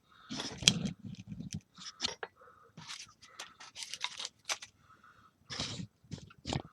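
Tools and small parts being handled and set down on a workbench: scattered clicks, taps and short scrapes, with no motor running.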